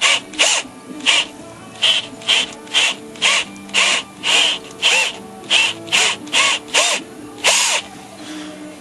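Power drill run in short bursts, about two a second, its motor whining up and down in pitch with each pull of the trigger; the bursts stop near the end.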